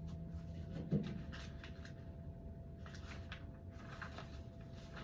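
Hands handling small parts and packaging: scattered light rustles and clicks, with one louder knock about a second in.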